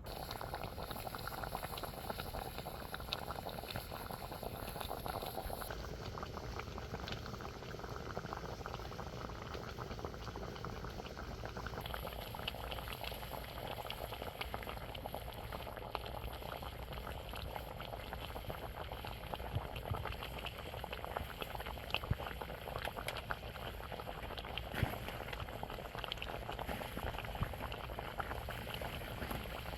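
A pot of food boiling steadily, with a constant bubbling and many small pops.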